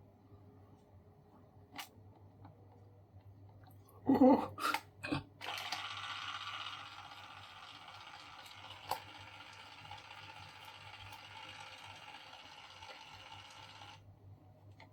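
DYMO LabelManager 100 printing a label: a few clicks, then its tape-feed motor and print head run with a steady whirr for about eight seconds and stop abruptly. The repaired label maker is working again.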